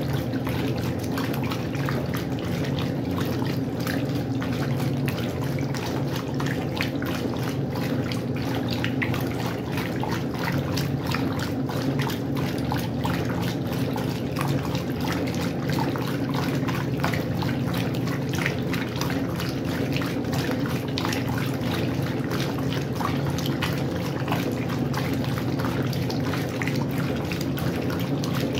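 Westinghouse washing machine running with water inside: a steady motor hum under continuous irregular splashing and sloshing of water.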